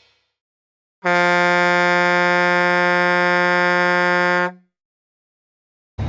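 A single steady horn-like blast held at one pitch for about three and a half seconds, starting about a second in and cutting off sharply.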